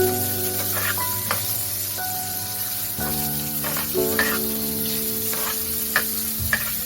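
Fried rice sizzling in oil in a pan, stirred with a spatula that scrapes and clinks against the pan several times.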